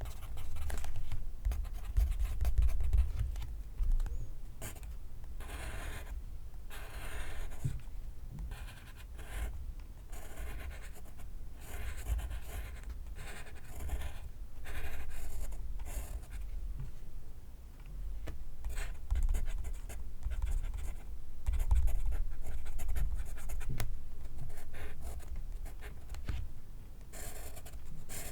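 Pencil writing on paper: scratchy strokes of varying length, coming in irregular runs with short pauses between.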